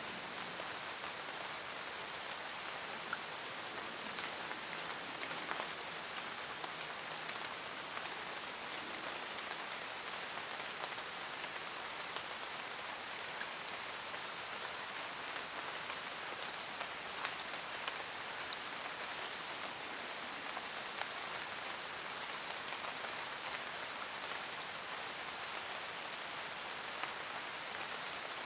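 Steady rain falling in a forest, an even hiss with many individual drops ticking on leaves and surfaces.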